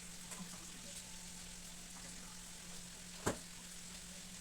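Steady sizzling of food frying in a pan, with one sharp clack a little over three seconds in.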